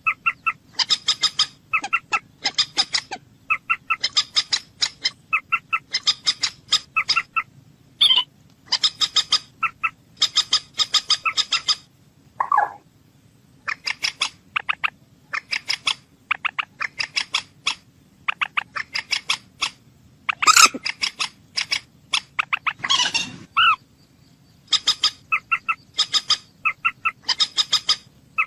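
Common moorhen calling: repeated short bursts of rapid clicking notes, about half a second each with brief gaps, broken by a lone lower call about twelve seconds in and a louder, rougher call about two-thirds of the way through.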